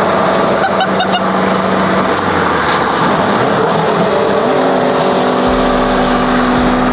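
Car engine running at a steady speed under road and wind noise while driving. About four and a half seconds in, the engine note changes to a lower steady pitch.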